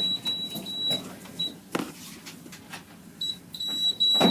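A high-pitched electronic beep tone sounds for about a second, blips once, then returns near the end, pulsing on and off. Two short knocks come in between and at the close.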